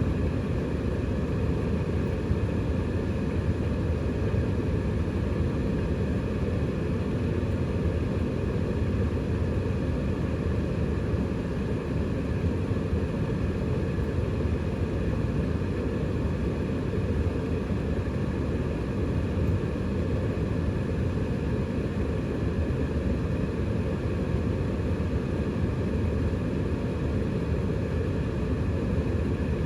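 Siemens Extraklasse XLS 140 A front-loading washing machine spinning at steady high speed in its final spin: a constant drum rumble with a faint motor whine above it.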